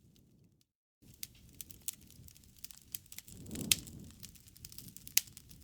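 Wood fire crackling, with scattered sharp snaps over a soft low rumble and louder pops past halfway and near the end. The sound cuts out completely for a moment near the start.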